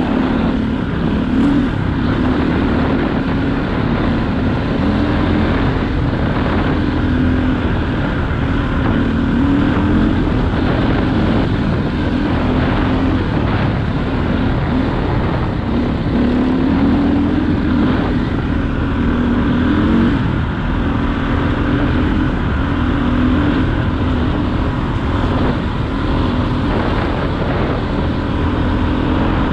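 2001 KTM EXC 400's four-stroke single-cylinder engine running steadily under way, its revs rising and falling a little.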